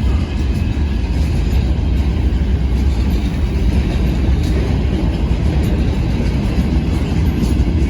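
A train running with a steady, loud rumble.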